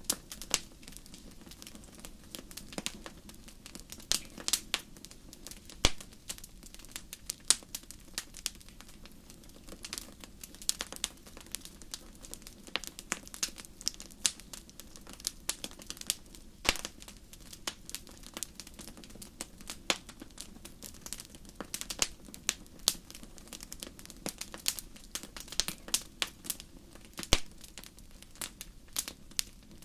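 Wood fire crackling in a fireplace: irregular snaps and pops, several a second, over a steady low hush.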